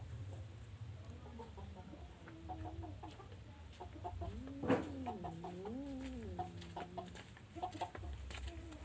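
An animal calling: drawn-out calls that rise and fall in pitch, the longest near the middle, over a steady low hum.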